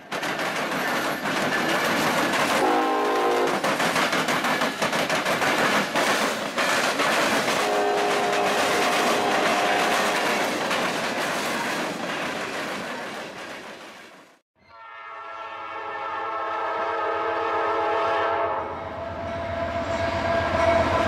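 A freight train rolling over the diamond crossings, its wheels clattering across the rail joints, with a couple of short pitched tones over the clatter. After a sudden cut about two-thirds in, an approaching diesel locomotive sounds a long multi-tone horn blast over the deep rumble of its engines, getting louder.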